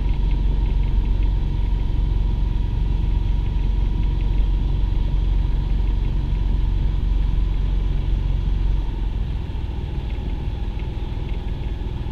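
A sailboat's auxiliary engine motoring under way with a steady low rumble. About nine seconds in the rumble drops a little quieter as the throttle is eased back.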